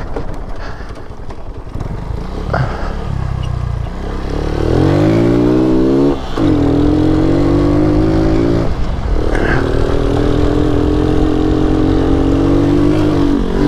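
Lifan KP Mini 150's single-cylinder engine under way off-road: running low and uneven for the first few seconds, then revving up about four seconds in, dropping briefly twice, and holding a steady high pitch.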